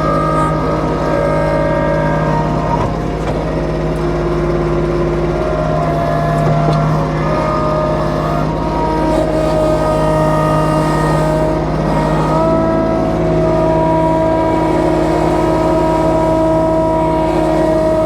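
Kubota B2650 compact tractor's three-cylinder diesel engine running steadily at work, its pitch stepping slightly about twelve seconds in.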